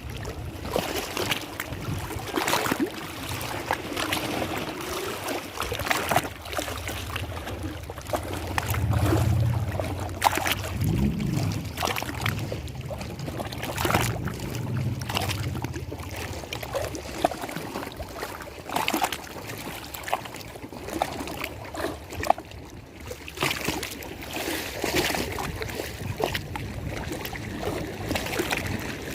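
Lake water splashing and lapping in irregular, uneven waves. A low hum swells and fades in the middle.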